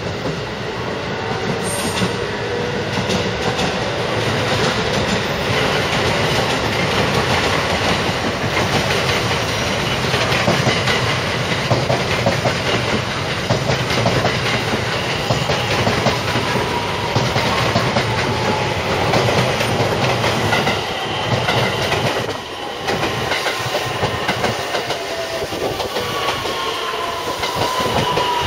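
JR West electric multiple-unit train arriving: wheels clattering over rail joints and points under a steady rumble. A motor inverter whine falls in pitch near the end as the train slows.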